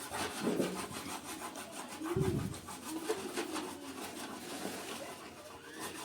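Wood rubbing and scraping in a fast, even rasping rhythm, from bread dough being worked with wooden tools. A short, louder low sound cuts in about two seconds in.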